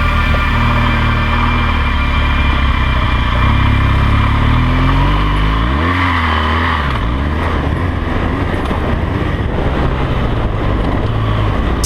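BMW R 1200 GS LC's liquid-cooled boxer-twin engine running under way, its pitch rising and falling around the middle as the throttle is worked.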